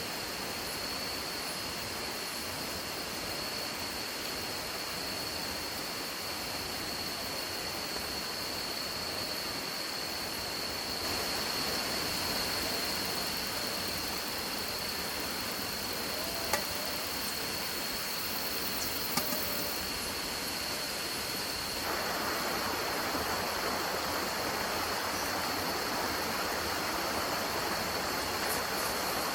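Steady outdoor rushing noise, like running water, with a constant high-pitched whine through it. The level steps up twice, about a third and three-quarters of the way in, and there are two faint clicks in the middle.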